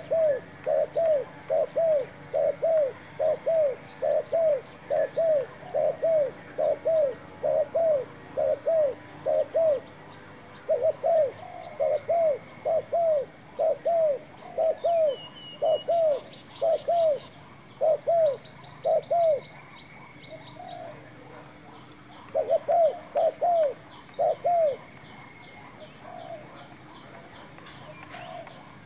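Spotted dove cooing in a long run of short, rise-and-fall coos, about two a second, with a brief break near the middle and a longer one before a last short burst of four coos; it goes quiet for the final few seconds.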